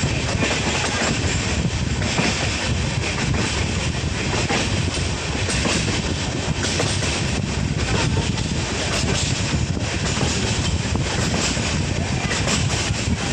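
Indian Railways sleeper coach running on the track, heard from inside: a steady rumble with the clatter of wheels over the rails.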